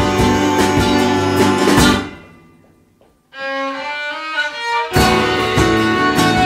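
Folk-rock band playing with drums, bass, guitars and violin. About two seconds in the band stops and dies away almost to silence, a lone instrument plays a short melodic phrase, and the full band comes back in with the drums about five seconds in.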